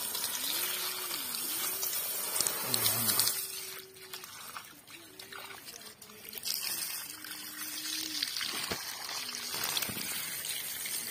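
Water spraying from a hose onto plastic toy trucks, splashing and trickling off them. The spray eases off for a couple of seconds about four seconds in, then picks up again.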